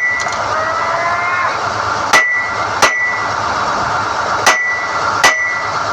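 Four ringing metal-on-steel hammer blows on NQ drill rods, struck in two pairs about 0.7 s apart, over the steady running noise of the drilling rig.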